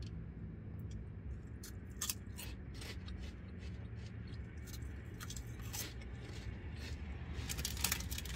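Close-up crunching and chewing of crispy corn snack sticks, a run of short sharp crunches starting about two seconds in and coming thickest near the end.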